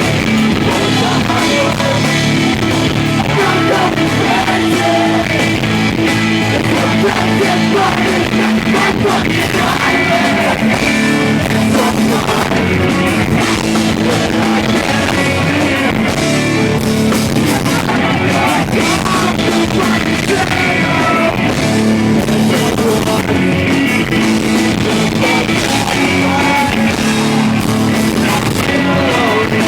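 Live rock band playing loudly, with electric guitars, drum kit and sung or shouted vocals, heard through a small handheld recorder's microphone.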